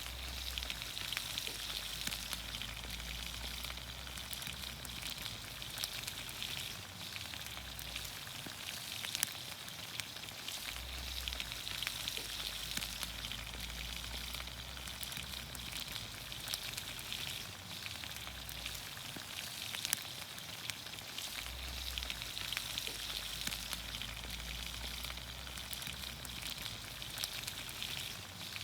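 Green beans, onions, carrots and potatoes cooking in olive oil over a campfire, sizzling steadily with many small crackles and pops throughout.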